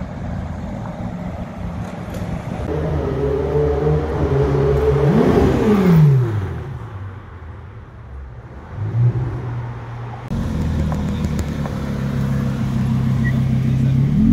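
Sports-car engines in several short clips one after another: a deep engine running, then an engine note rising and falling steeply in pitch about five seconds in, then a quieter stretch with a short sharp rev near nine seconds, and another engine running steadily near the end.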